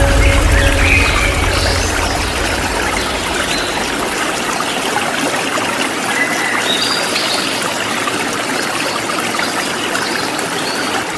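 Waterfall water running in a steady hiss, with short high bird chirps scattered through it. A low hum underneath fades out over the first few seconds.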